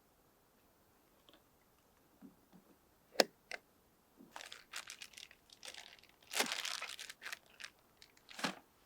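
Crinkling and rustling of something being handled, after one sharp click about three seconds in; the rustling is loudest a little past the middle.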